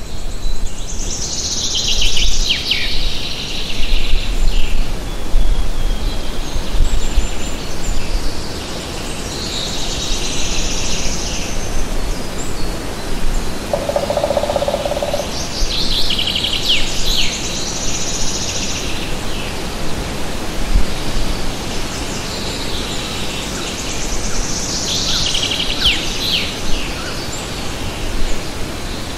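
A songbird singing the same short descending phrase four times, each about two seconds long, with a lower, briefer call from another bird about halfway through. A low rumble, stronger in the first few seconds, runs beneath the song.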